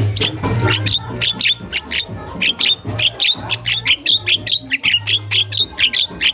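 Javan myna (jalak kebo) calling without pause, a rapid string of short, sharp, squawking notes, several a second.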